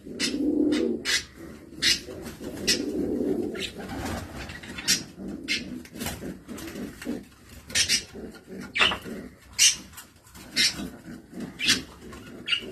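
Domestic pigeons cooing, the low rolling coos strongest near the start and again about two to three seconds in. Short sharp clicks and knocks are scattered throughout.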